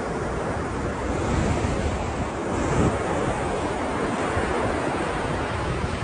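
Ocean surf: waves breaking and washing in as a steady wash of noise, with wind buffeting the microphone in low rumbles.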